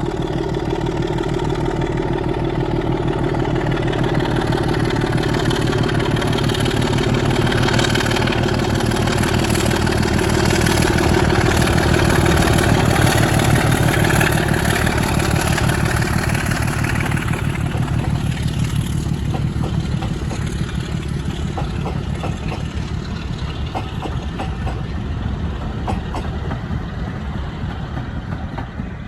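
Diesel locomotive engine running, a Class 24's Sulzer six-cylinder engine, growing louder to a peak about halfway, then slowly fading. A few sharp clicks come in the second half.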